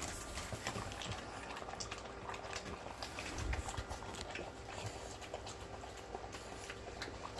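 A dog eating soft, wet food from a bowl, with irregular small clicks of licking and chewing.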